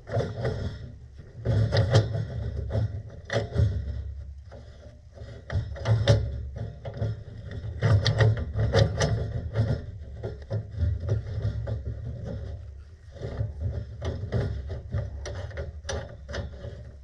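Gas pipe union and fittings being worked by hand and with a wrench: irregular metal clicks, scrapes and knocks as the union fails to thread on.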